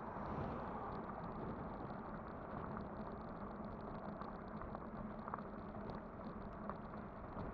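Ride noise from a Kugoo Kirin V5 electric bike under way: a steady rumble of wind and tyres with a low steady hum and a few small clicks.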